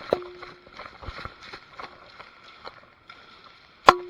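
Two sharp airsoft cracks, one just after the start and a louder one near the end, each followed by a brief metallic ring. Light rustling and small ticks fill the time between them.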